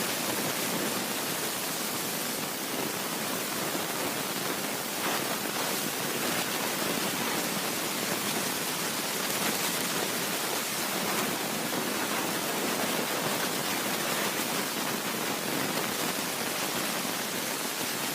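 Steady rushing noise of a moving train: an even hiss with no clear rhythm or clicks, holding level throughout.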